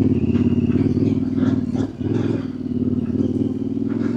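Yamaha Ténéré 700's parallel-twin engine running on the move, the throttle easing off and picking up again a couple of times, with a few short knocks from the bike over rough dirt track.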